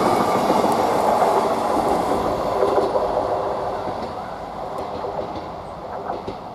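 An East Midlands Railway Class 158 diesel multiple unit passing through the station, the rumble of its wheels on the rails fading steadily as it moves away, with a few faint clicks near the end.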